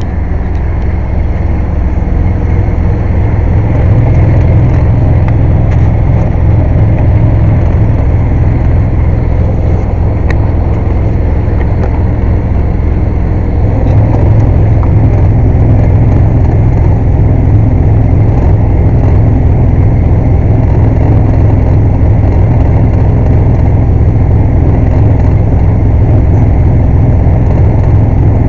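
Air compressor running loud and steady with a heavy low drone, building over the first few seconds and stepping up a little about halfway through.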